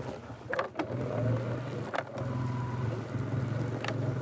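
Polaris ATV engine running steadily at low speed on a rough trail. Its drone dips briefly twice. A few sharp knocks come through over it.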